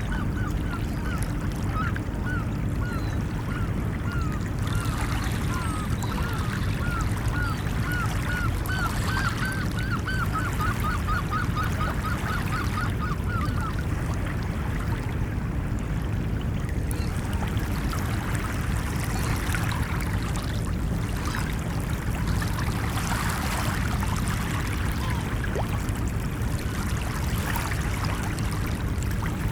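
Steady surf noise of ocean waves washing on a beach. Over it, a bird gives a rapid run of short repeated calls, about two or three a second, that stops a little under halfway through.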